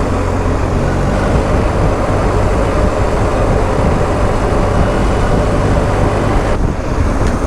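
BMW R1250 GS Adventure's boxer-twin engine running steadily at road speed, under loud, even wind rush.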